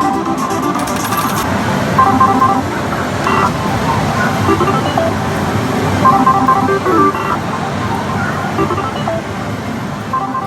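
Pachislot hall din: a dense wash of noise with short electronic jingles from the slot machines coming back every few seconds.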